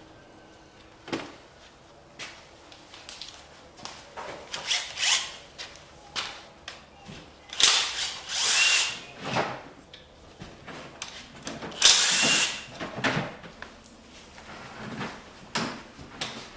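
Power tool run in three short bursts of about a second each, the later two the loudest, with metal tools clinking between them: fasteners being run off during an engine teardown.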